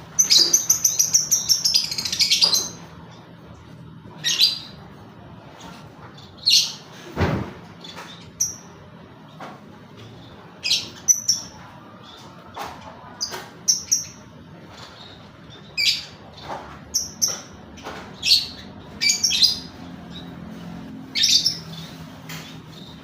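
Lovebird calling: a fast run of high, chattering chirps for the first two and a half seconds, then short separate chirps and squawks at irregular intervals, with one dull thump about a third of the way in.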